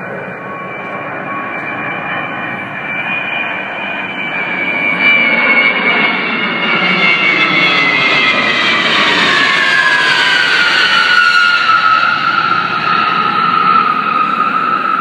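Low-flying US Air Force plane passing overhead: the engine noise swells to a peak in the middle, and a whining engine tone drops in pitch as the plane goes past.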